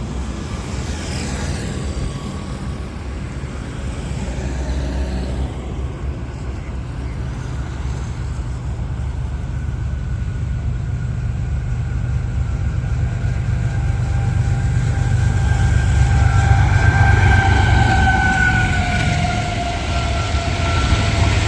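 Pakistan Railways express train passing at speed, a low rumble that builds and is loudest near the end. Late on, a held, two-tone sound that falls slightly in pitch, like the locomotive's horn, sounds over the rumble.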